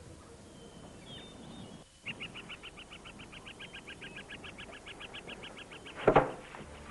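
Countryside ambience of a bird trilling: an even run of rapid chirps, about eight a second, lasting some four seconds, after a faint single chirp. A sudden loud sharp sound cuts in near the end.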